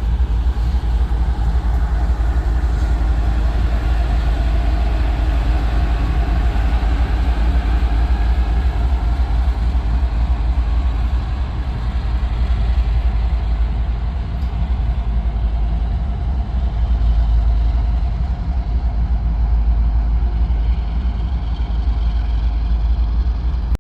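Freight train rolling past, a loud steady rumble with no horn or break in it.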